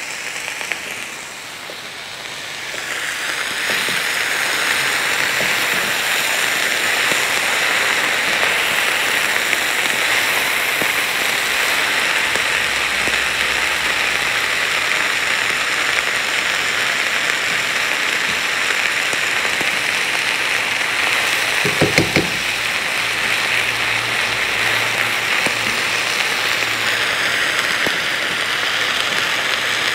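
Chicken and diced peppers and zucchini sautéing in an uncovered frying pan: a steady sizzle that swells over the first few seconds and then holds, as the vegetables begin to soften.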